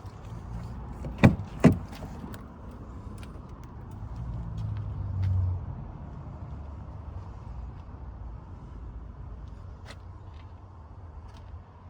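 A steady low vehicle rumble with two sharp knocks about half a second apart a little over a second in, and the rumble swelling briefly about four to five seconds in.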